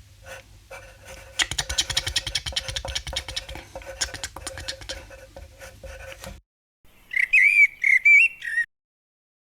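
Fast scratching of a pen on paper for about six seconds. Then, about seven seconds in, a loud whistled phrase of common blackbird song whose notes glide up and down.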